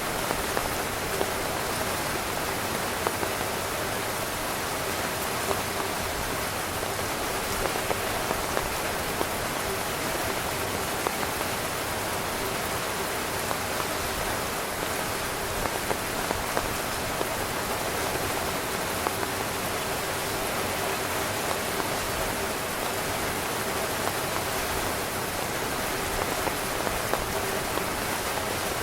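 Steady heavy rain pattering on a tent, with many individual drops ticking sharply out of the even hiss.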